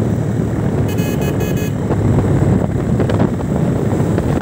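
A vehicle on the move, its low rumble mixed with wind buffeting the microphone. About a second in, a short high beep pulses three or four times.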